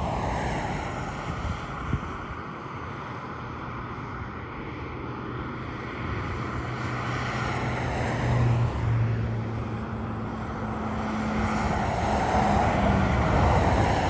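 Diesel freight locomotives working hard up a steep grade: a steady low engine drone over a broad rumble that grows louder from about six seconds in. A falling whine comes at the very start.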